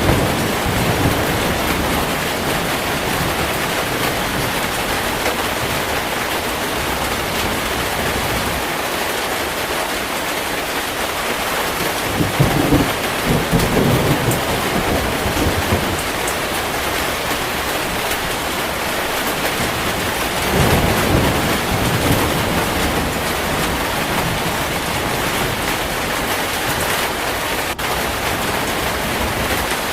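Heavy rain falling steadily, with low rolls of thunder three times: right at the start, about twelve seconds in, and again about twenty-one seconds in.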